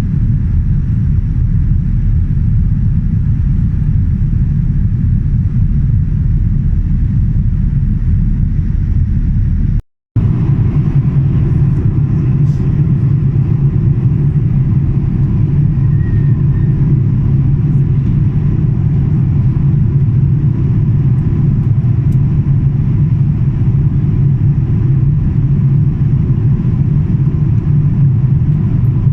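Steady low rumble of aircraft cabin noise inside a Boeing 787 Dreamliner. It drops out for an instant about ten seconds in, then resumes with a heavier low hum.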